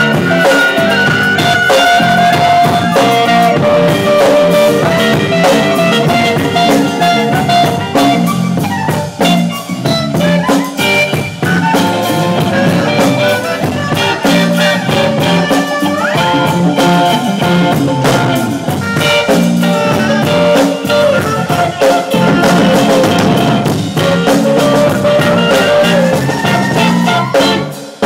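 Live band playing an instrumental jam: drum kit keeping a steady beat under held lead lines, with a couple of notes sliding upward in pitch. The music dips briefly at the very end.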